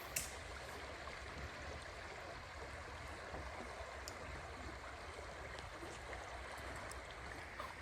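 Creek water flowing steadily, a soft even rush of moving water, with a brief click just after the start.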